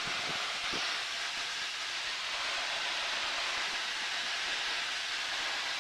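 Steady cockpit noise of a Cessna 152 in flight: an even hiss of airflow and engine noise, with no distinct engine tone.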